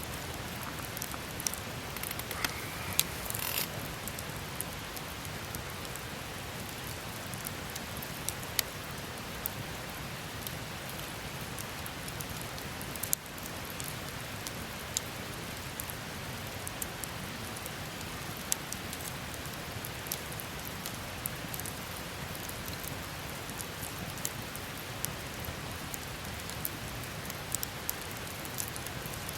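Wood campfire burning: a steady hiss with frequent sharp crackles and pops, a few louder ones in the first seconds and one about halfway through.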